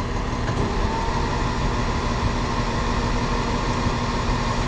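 Tow truck's engine and hydraulics running steadily while the wrecker boom is drawn in, with a steady hum underneath.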